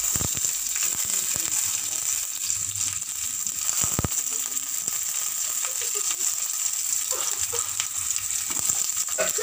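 Green chillies frying in hot oil in a non-stick pan: a steady sizzle with fine crackles. A sharp knock at the very start and another about four seconds in.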